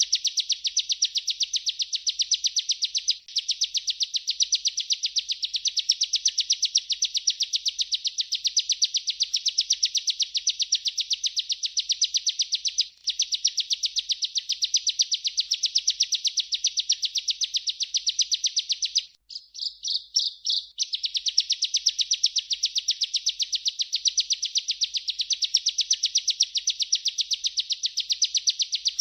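Bar-winged prinia (ciblek) singing its 'ngerol' rolling song, a long unbroken trill of very rapid, high notes. It breaks off briefly about three and thirteen seconds in. Around twenty seconds in it stutters into a few separate notes, then rolls on.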